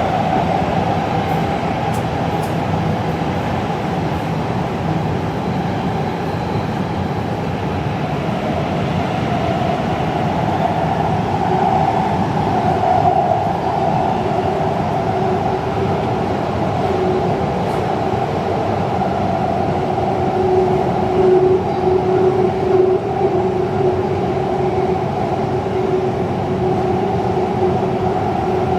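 Taipei Metro train running on the Zhonghe–Xinlu line with a steady rumble of wheels on rail. A humming tone comes in more strongly about halfway through.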